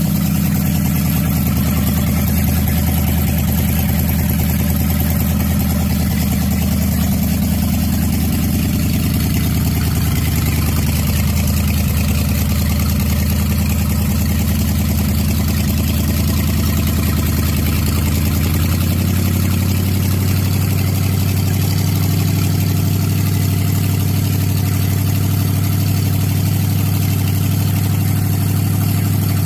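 Carbureted Chevrolet small-block V8 idling steadily with the hood open. Its idle settles to a lower, deeper note about two-thirds of the way through.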